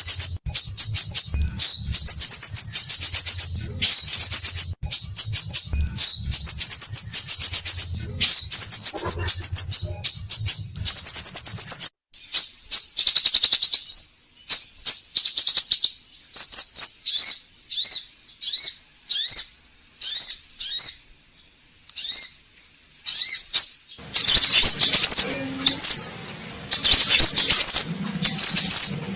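Sepah raja (scarlet minivet) singing continuously in quick runs of short, high chirping notes. The notes come in dense repeated phrases, thin out to single chirps through the middle and grow dense and loud again near the end.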